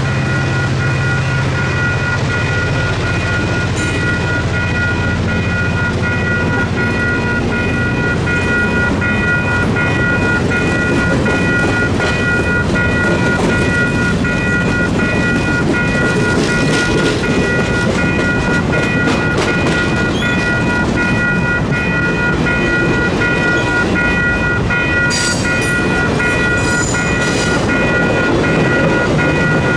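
Cuyahoga Valley Scenic Railroad train running on the track: steady rail and wheel noise with a few high tones held throughout. A run of sharp clicks comes near the end.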